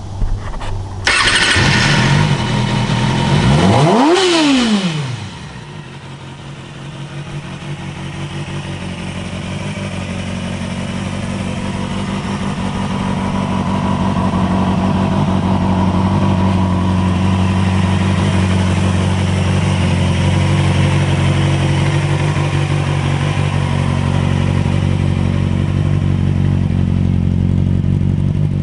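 2007 Kawasaki ZX-6R's inline-four engine starting about a second in and revved once, its pitch rising and falling, then settling into a steady idle.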